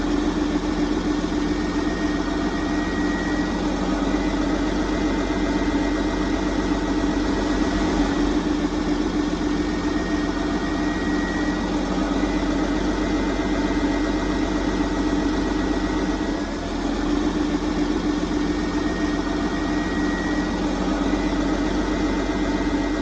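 Radio-controlled toy heavy equipment running with a steady mechanical hum that keeps an even pace, with a slight dip about two-thirds of the way in.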